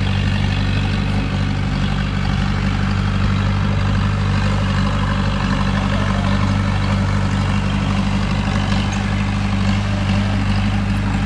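Heavy diesel engine of earthmoving machinery running steadily at an unchanging pitch.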